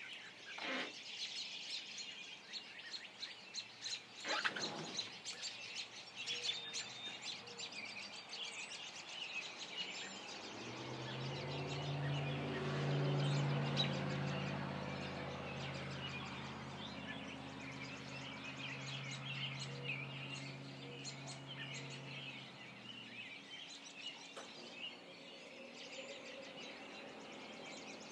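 Songbirds chirping and singing throughout. Partway through, a low engine-like hum swells up, peaks and fades away again.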